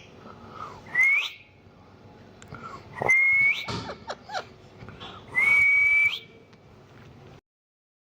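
Whistling: a short rising whistle about a second in, then two held whistles at one steady pitch, each ending in a quick upward flick. The sound cuts off shortly before the end.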